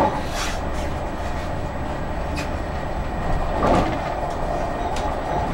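Railjet passenger train running at speed, heard from inside the carriage: a steady rumble of wheels on rails. A few brief louder knocks and swishes come through, the biggest nearly four seconds in.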